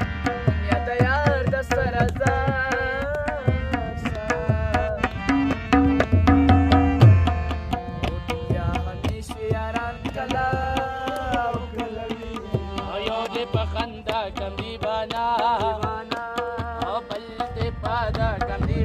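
A local singer's voice, wavering and ornamented, over steady drum beats.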